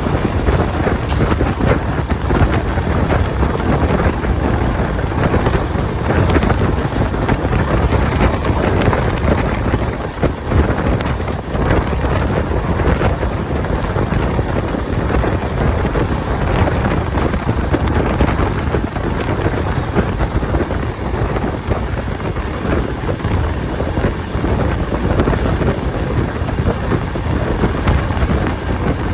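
Express train running at speed: a steady rumble and rush, with wind buffeting the microphone.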